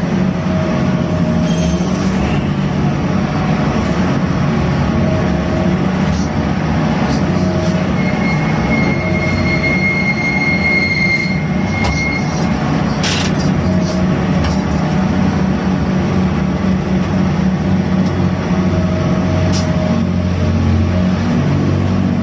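A gatt ship's grab-bucket crane machinery running steadily under load during cargo handling. A high metallic squeal is held for a few seconds near the middle, followed by a sharp clank.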